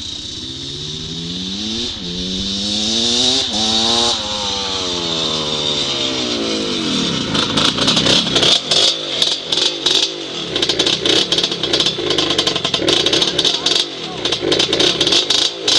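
Off-road engine revving up twice in quick succession, then winding down as the throttle comes off. From about seven seconds in, a fast, uneven run of sharp crackling pulses sounds over the lower engine note.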